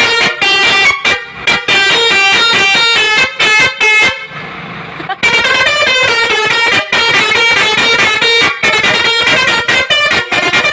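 Truck's musical horn playing a rapid tune of short, changing notes, with a brief pause about four seconds in.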